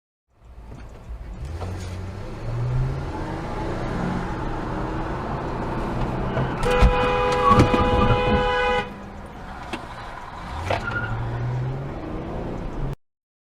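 Road and engine noise inside a moving car, with a car horn held for about two seconds over the middle of the clip and a few sharp knocks as it begins.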